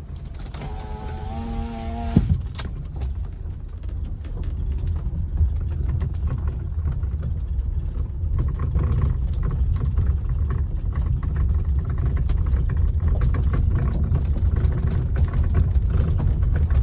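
Toyota Camry driving over a gravel road, heard from inside the cabin: steady low road rumble with many short, sharp knocks, the steering knock that shows up on gravel. A brief steady tone sounds about half a second in and stops about two seconds in.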